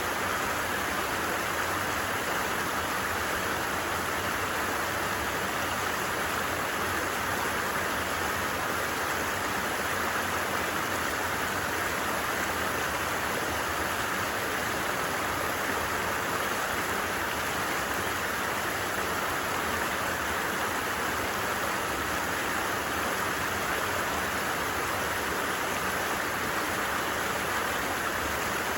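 A creek flowing in a steady, unbroken rush of water.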